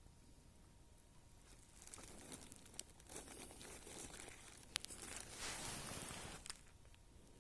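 Faint rustling and crinkling of dry material being handled, with a few sharp clicks. It thickens into a steadier rustle about five seconds in, then stops.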